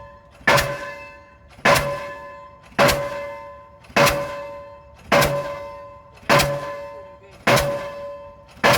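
Delmag D46-32 diesel pile hammer driving a concrete pile, striking steadily at a little under one blow a second, eight blows in all. Each blow is a sharp bang followed by a metallic ring that dies away before the next.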